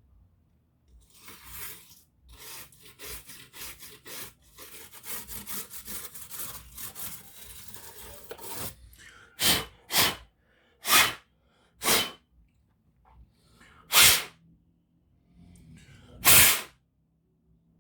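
Scratchy rubbing and brushing for several seconds, then six short, sharp puffs of air. This is typical of a laptop fan and heatsink being scrubbed clean and the dust blown out.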